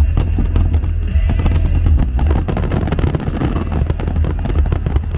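Fireworks display: many rapid cracks and bangs of bursting aerial shells and crackling fountains, thickening about two seconds in, heard together with music that has a heavy bass.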